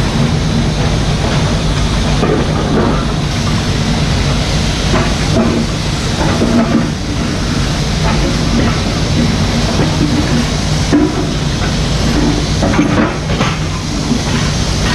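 Mini excavator's diesel engine running steadily, with a few short knocks and scrapes from the machine working.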